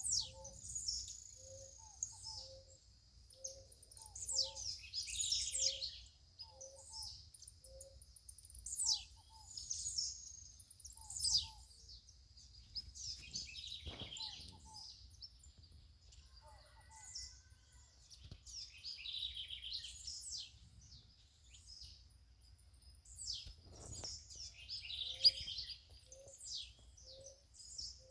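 Several birds singing and calling over one another in quick chirps and trills, over a steady high-pitched insect drone. A short low note repeats about twice a second at the start and again near the end.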